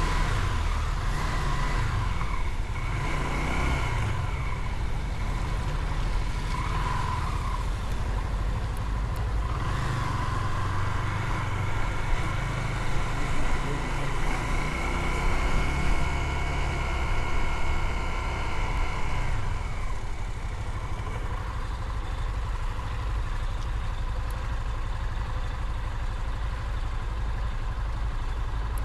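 Motorcycle engine running on the move, its pitch rising and falling several times with throttle and gear changes. About twenty seconds in, the pitch falls and it settles to a lower, steadier sound.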